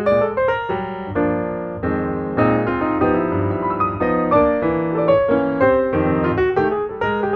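Background music: a piano playing a gentle melody over chords.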